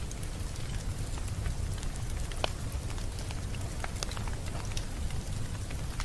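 Wood fire crackling: scattered sharp pops and ticks over a steady low rumble, with one louder pop about two and a half seconds in.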